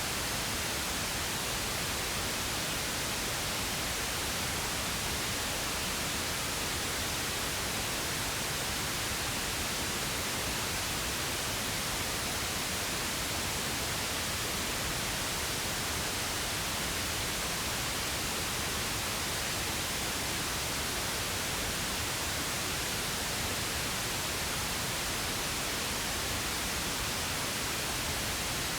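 Synthetic pink noise: a steady, unchanging hiss with no breaks or events.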